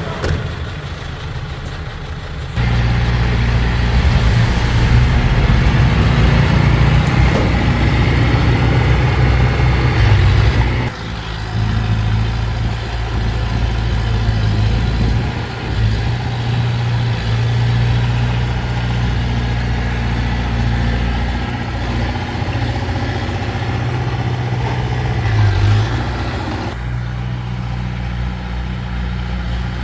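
Heavy diesel engine of earthmoving machinery running steadily. The sound gets suddenly louder about three seconds in, drops abruptly about eleven seconds in, and shifts again near the end.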